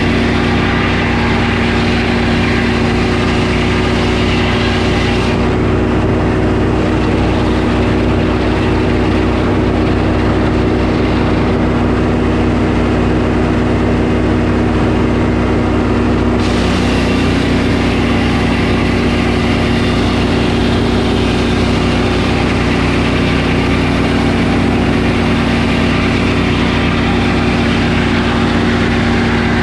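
Portable sawmill's engine running steadily. The higher hiss above it drops away about five seconds in and comes back about eleven seconds later.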